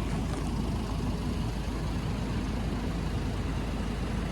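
Car engine idling steadily just after a cold-morning start. The white exhaust smoke that goes with it is water vapour from the cold, not a fault.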